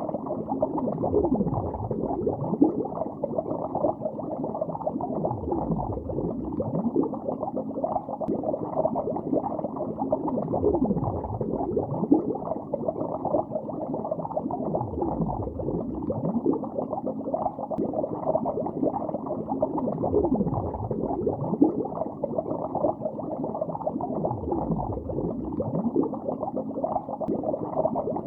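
Underwater lake bubbles heard beneath the water surface: a continuous, dense bubbling with many small sliding pitches, low and muffled.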